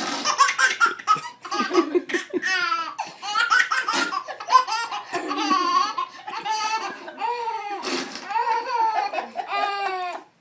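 Baby laughing hard in a long run of high-pitched laughs, one after another with short catches of breath between.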